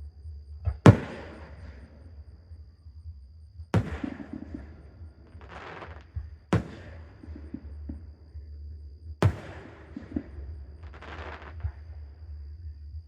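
Aerial fireworks bursting: four loud booms about three seconds apart, each trailing off in an echo. Twice between the booms, softer crackling fizzles.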